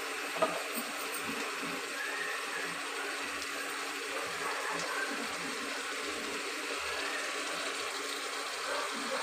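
Onion-tomato masala frying in oil in a pressure-cooker pan, a steady even sizzle, with one small click about half a second in.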